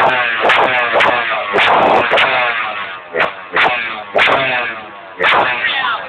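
Dirt bike engine revved hard in repeated throttle blips, about two a second, each starting with a sharp crack and sliding in pitch between them.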